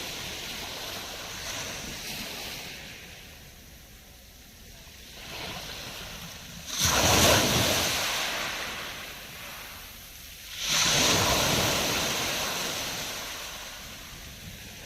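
Black Sea waves breaking on the shore twice, about 7 and 11 seconds in. Each starts with a sudden crash, then a hiss fades away over a few seconds.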